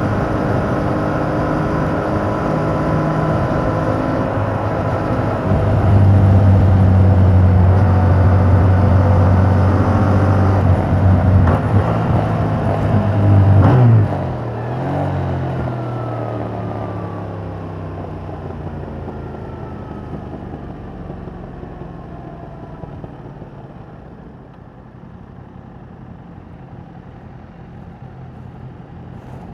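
Yamaha MT-07's parallel-twin engine through its stock exhaust, riding under throttle. It gets louder about six seconds in, drops off sharply about halfway, then winds down in pitch and fades as the bike slows.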